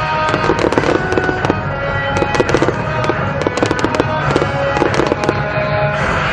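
Aerial fireworks bursting and crackling in quick, irregular succession, with music playing underneath.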